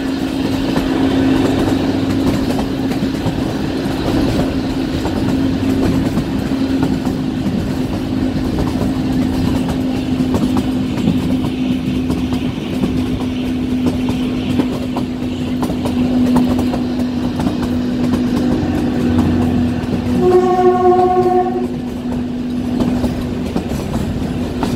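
Narrow-gauge Kalka–Shimla train running, with a steady drone and a continuous clatter of wheels over rail joints. Its horn sounds once, about 20 seconds in, for about a second and a half.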